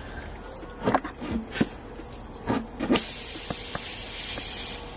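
A few short knocks as the tire-plug reamer is worked into the puncture, then about three seconds in a loud, steady hiss of air escaping from the tire's puncture for almost two seconds before it stops.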